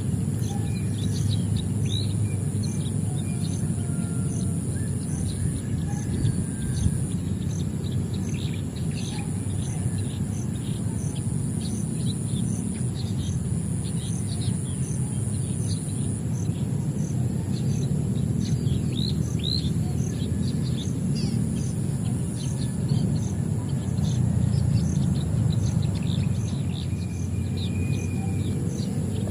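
Many small birds chirping, short quick calls one after another, over a steady low rumble. A steady high buzz with a regular beat, about three a second, runs underneath.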